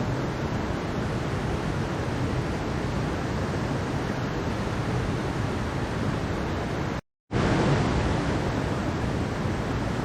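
Mountain stream water rushing steadily over rocks, an even wash of noise. It cuts out to silence for about a third of a second about seven seconds in, then carries on.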